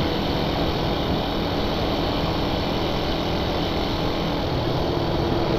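Carbureted Suzuki Satria FU 150's single-cylinder four-stroke engine running at a steady cruise, mixed with wind rushing over the helmet-mounted microphone.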